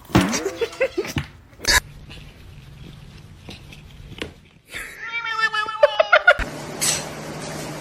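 A cat meowing: a short call right at the start and a longer, higher call later that cuts off suddenly, with a sharp knock in between.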